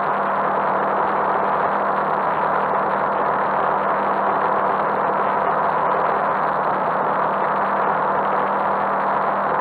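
Motorcycle running at a steady speed, heard from a handlebar-mounted camera: a steady rush of wind and road noise with a constant low engine hum underneath, no change in revs.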